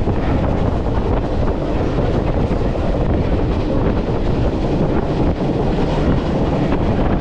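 Passenger train running along the track, a steady loud rumble and rattle of the moving cars, with wind buffeting the microphone.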